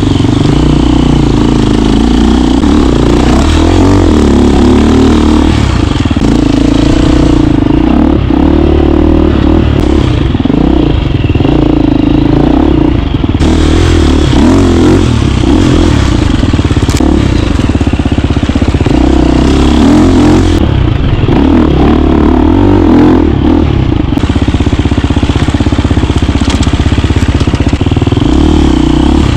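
KTM 350 dirt bike's four-stroke single-cylinder engine running loud and close while being ridden, revs rising and falling as the throttle opens and closes.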